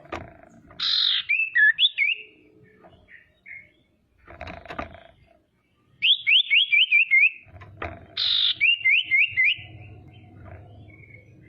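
Female common iora (sirtu/cipoh) calling: a short harsh rasp followed by a few quick hooked whistled notes, twice, and between them a fast run of about five falling whistles.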